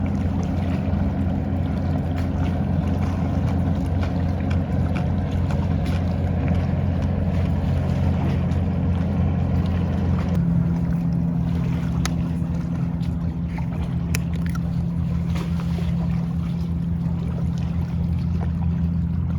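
An engine droning steadily, its pitch shifting slightly about ten seconds in.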